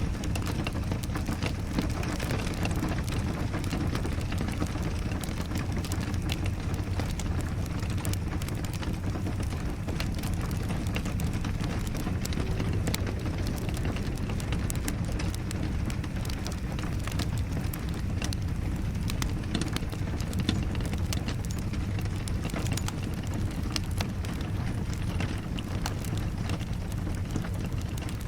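Steady rain mixed with a crackling wood fire: a constant low rush with many small, sharp pops scattered through it.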